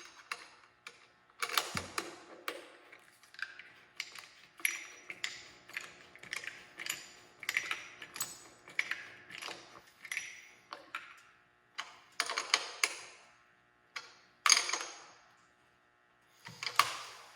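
Socket ratchet clicking in repeated short strokes, a burst about every second with short pauses: a wrench tightening the slip-on exhaust's mounting bolts.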